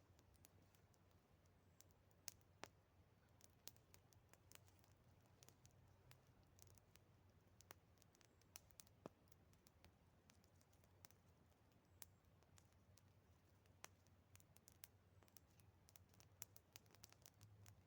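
Faint campfire crackling: irregular sharp pops and clicks from the burning wood, sometimes a few in quick succession.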